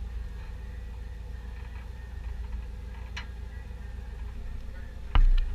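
A sharp click about three seconds in, then a loud thump with a few quick clicks near the end, over a steady low rumble.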